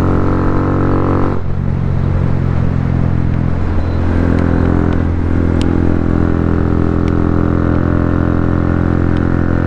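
Honda Grom's single-cylinder engine with a Yoshimura full exhaust, heard from the rider's helmet while riding. The throttle eases off about a second in, then the engine comes back on power from about four seconds in and runs steadily.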